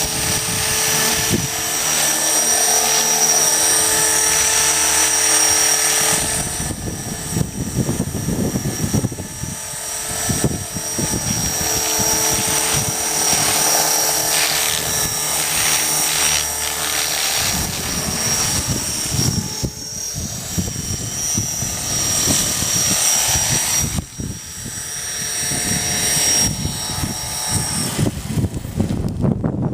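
A loud, steady machine drone with a high whine over it, changing character about six seconds in.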